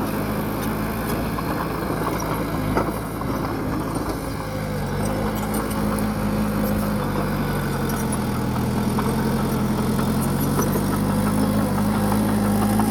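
Heavy diesel engine of a bulldozer running steadily, its note dropping for a few seconds in the middle and climbing back near the end, with faint scattered clicks over it.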